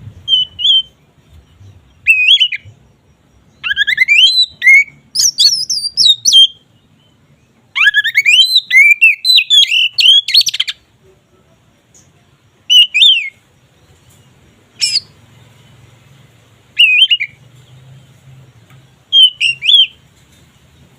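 Oriental magpie-robin singing in open, full song: loud phrases of rapidly varied whistles and chattering notes, coming in bursts with short pauses, the two longest phrases lasting a few seconds each.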